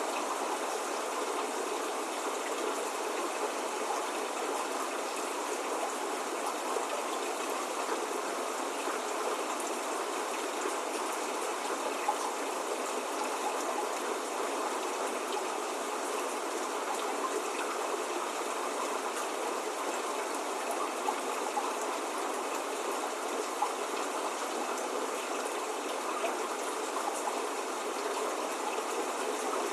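Steady spring rain falling, an even hiss with scattered small drop ticks and no thunder or birdsong.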